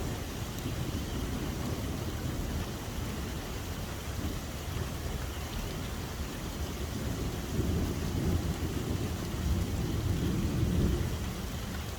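Steady rain falling, with a low rumble that swells in the second half and fades near the end.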